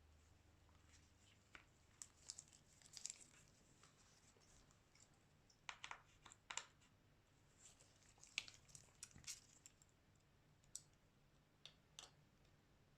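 Faint, scattered small clicks and taps of a phone and small tools being handled during a screen repair, with a few clusters and single ticks spread irregularly.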